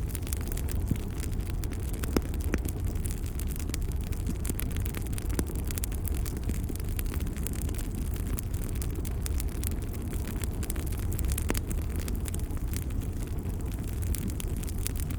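Wood fire crackling, with many small irregular pops over a steady low rumble of the flames and one sharper pop about two seconds in.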